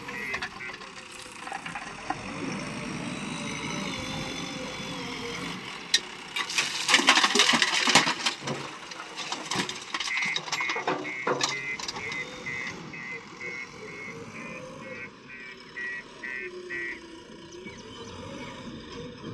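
A JCB backhoe loader's reversing alarm beeping rapidly, about two to three beeps a second, over its running diesel engine. A loud burst of rattling noise comes about seven seconds in, and the beeping returns later.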